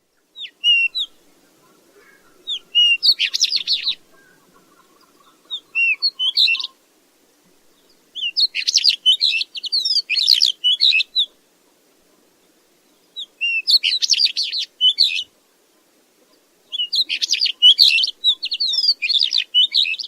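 A chat (Saxicola) singing: short, scratchy, fast-warbled song phrases, about six of them, each lasting one to three seconds and separated by brief pauses.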